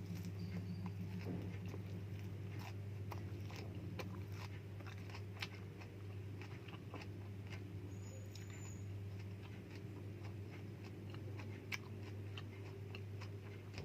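A person chewing and biting food close to the microphone, with scattered sharp clicks and crunches, over a steady low electrical hum.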